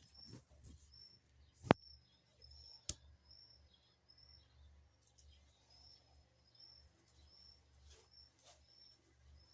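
A small bird repeating a short, high chirp at an even pace, roughly one to two a second, over a low steady rumble, with a single sharp click about two seconds in.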